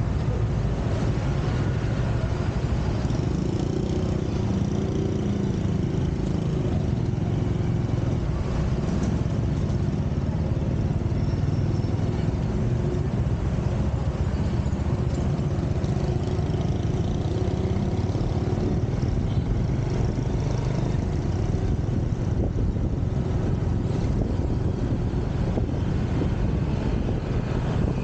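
Motorcycle on the move: steady engine and riding noise with a low rumble at an even level.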